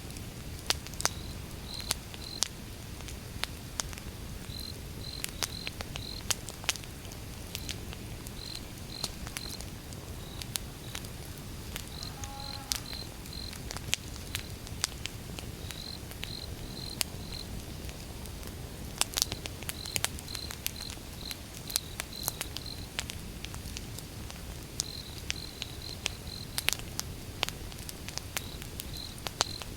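Wood fire crackling, with sharp irregular pops over a low steady rumble of burning logs. Crickets chirp in short groups of a few pulses, roughly once a second.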